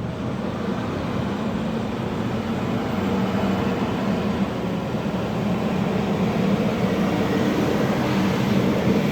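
Heavy truck engine running steadily with a low drone, growing a little louder over the first few seconds and then holding.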